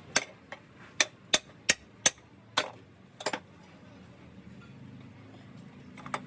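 A series of sharp clicks or knocks of hard objects, about eight in the first three and a half seconds at an uneven pace, then they stop and only a faint steady background remains.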